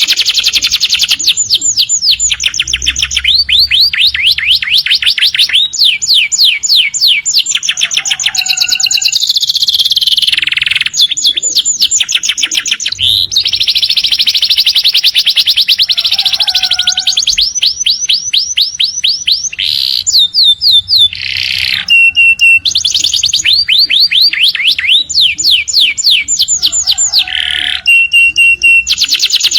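Canary singing a long, unbroken song: phrase after phrase of fast repeated trilled notes, some sweeping downward, with a few short steady whistles in the second half.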